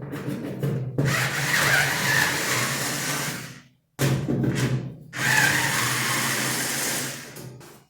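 Cordless screwdriver running in three spells, a long one, a short one and another long one, with brief stops between, backing screws out of a washing machine's cabinet.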